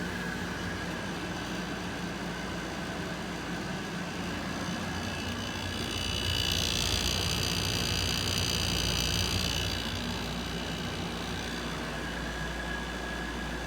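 Window air conditioners running with a steady hum. About six seconds in, a louder high hissing whine comes in for three to four seconds as a unit tries to start with its compressor under load, an attempt that trips the breaker.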